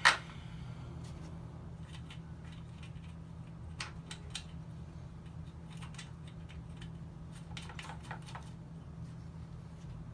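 A few faint clicks and light taps, as of small parts or tools being handled, over a steady low hum.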